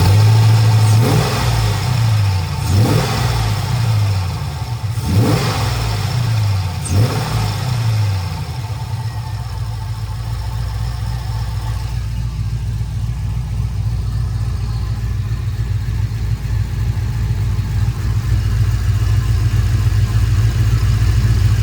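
Chevrolet Camaro V8 idling, blipped about four times in the first eight seconds and then left to idle evenly. The engine is suffering from blow-by and smoking, which the owner puts down to lost ring tension.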